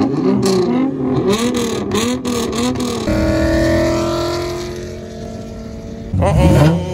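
A car engine revved up and down over and over with a few sharp exhaust cracks, then a steadier engine note that slowly fades. About six seconds in, a loud burst of revving cuts in suddenly.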